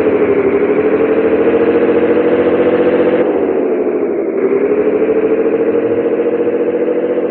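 Scania 113H 360 truck's 11-litre straight-six diesel running, a steady loud drone whose pitch sags and recovers just after the start and again around the middle.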